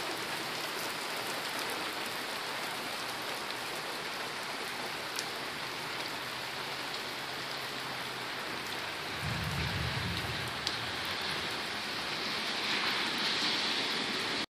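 Steady rain falling, an even hiss. About nine seconds in there is a brief low rumble lasting a second or so, and the rain grows a little louder near the end.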